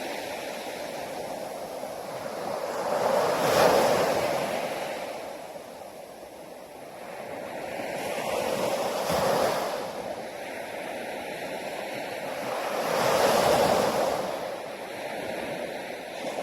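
Sea waves breaking on a beach, a steady rush of surf that swells up three times as waves come in and wash up.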